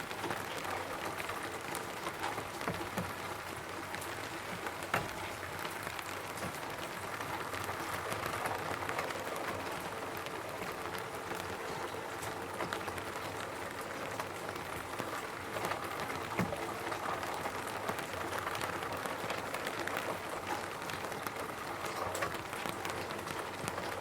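Steady rain falling on a roof: a continuous hiss with many scattered drop taps, a few single drops louder than the rest.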